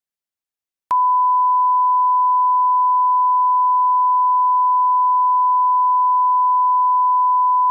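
A single steady electronic beep, one pure unwavering tone, switching on abruptly about a second in and holding at an even level without a break.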